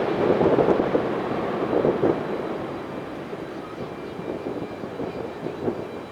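Boeing 737-800's CFM56-7B jet engines at departure thrust, a broad rumble fading steadily as the airliner climbs away.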